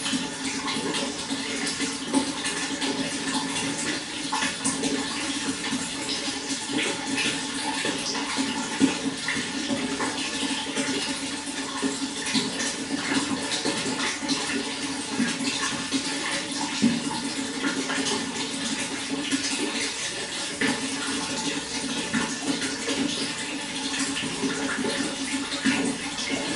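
Running water, a steady rush with many small splashes and droplets throughout.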